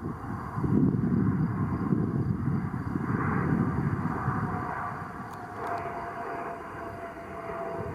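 Airplane engine noise: a low rumble that swells and fades, with a faint steady whine coming in about halfway through.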